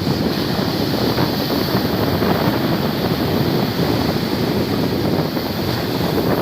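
Wind buffeting the microphone over the steady rush of sea surf on a beach.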